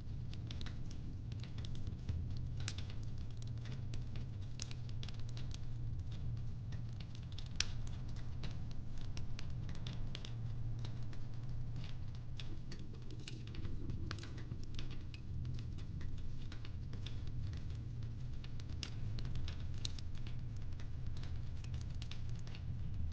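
Fireplace crackling: irregular small pops and snaps over a low, steady rumble.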